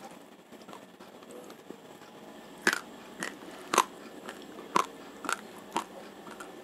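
Raw, uncooked Rojolele rice grains crunching between the teeth as a mouthful is chewed. After a quiet start, sharp crunches come at an uneven pace of about two a second.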